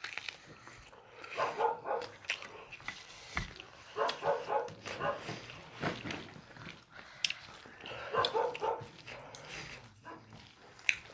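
A dog giving short yips and barks in quick runs of three or four, several times over, with sharp clicks in between.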